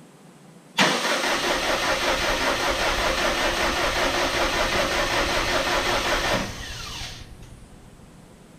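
Rebuilt Subaru EJ257 flat-four being cranked by its starter motor with the fuel pump fuse pulled, so it turns over without firing: an oil-priming crank. The cranking starts suddenly about a second in, runs evenly for about five seconds, then stops and a falling whine dies away.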